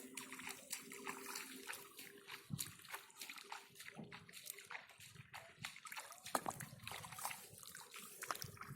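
Small, irregular splashes and sloshing in shallow muddy water as hands work through it to catch fish.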